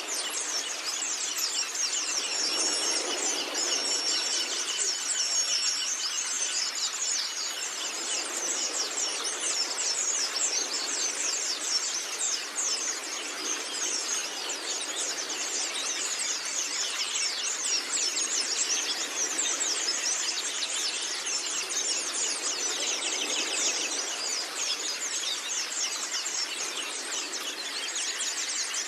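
White-eyes (pleci) singing: a continuous dense stream of rapid, high-pitched chirps and twitters, with three short level whistled notes between about two and six seconds in.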